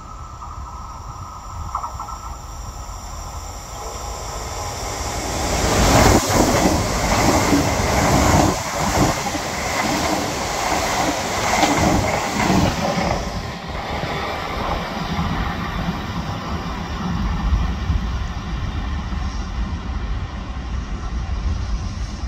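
Regional passenger train of coaches passing close by on the rails: its noise builds as it approaches, then a loud stretch of wheel-and-rail noise with a few sharp clacks over the rail joints, easing to a lower rumble as it pulls away.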